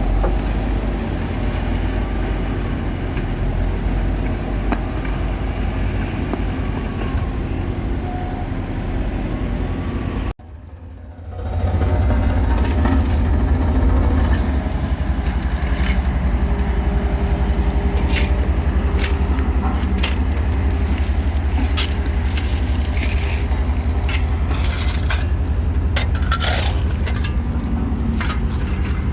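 Caterpillar wheel loader's diesel engine running steadily, with a short gap about a third of the way through. After the gap the engine is louder, with scattered scrapes and clanks over it.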